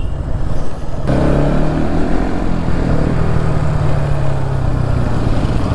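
Motorcycle engine pulled hard from about a second in, its note then holding and slowly sinking in pitch, under a steady rush of wind over the microphone.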